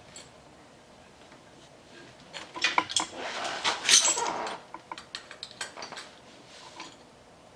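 Small metal parts and tools clinking and clattering as they are handled: a run of sharp clicks and knocks with a denser scraping rattle in the middle.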